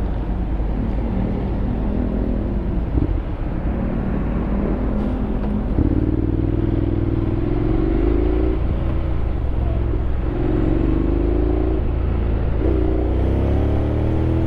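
Honda X-ADV 750's parallel-twin engine under way, running steadily at first. From about six seconds in it pulls three times, its pitch rising each time and dropping back at each automatic gear change.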